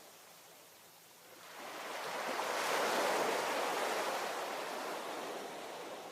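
Ocean wave breaking and washing up the shore: a rising rush of surf that peaks about three seconds in, then slowly fades as the water draws back.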